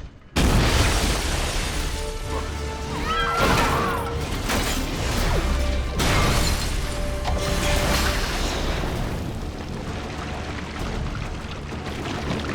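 Disaster-film sound effects: a sudden loud crash about half a second in, then a sustained heavy rumble with metal groaning and a second crash around six seconds, under dramatic orchestral score.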